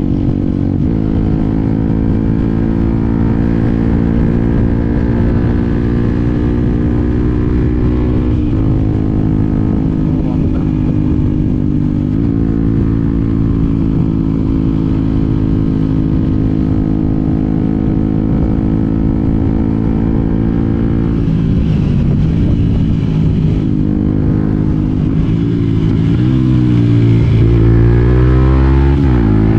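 Yamaha WR125X motorcycle's single-cylinder four-stroke engine running. It holds a fairly steady pitch for most of the time, with short dips about a second in and again around eight and twelve seconds in. Near the end it grows louder as the engine speed rises and falls repeatedly.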